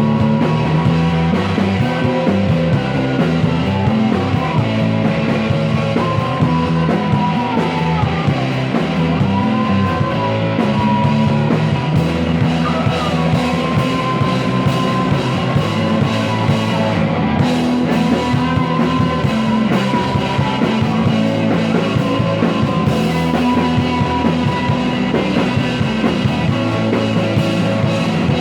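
Rock band playing an instrumental psychedelic rock passage, with a sustained, bending lead line over steady bass and drums.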